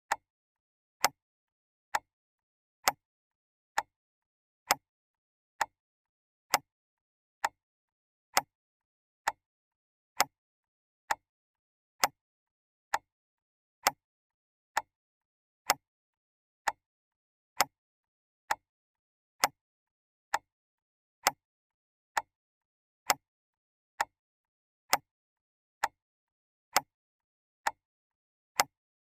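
Clock ticking steadily, one sharp tick a little under every second, with silence between ticks.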